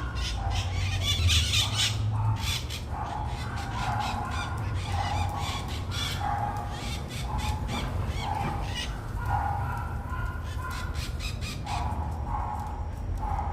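Maracanã parrots (maritacas) calling with harsh, repeated squawks, about one a second, with a denser, harsher burst in the first two seconds, over a steady low rumble.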